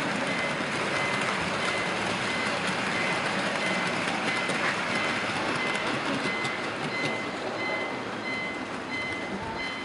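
HO-gauge model freight train heard from a camera riding on one of its container cars: a steady rolling rattle of small metal wheels on the track, with a thin high tone that comes and goes. It gets a little quieter toward the end.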